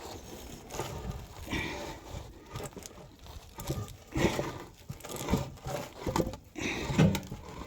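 Irregular scraping, rustling and a few knocks as the heavy fuel tank of a 1913 Richard Hornsby portable engine is worked down by hand and slid off its mounting studs.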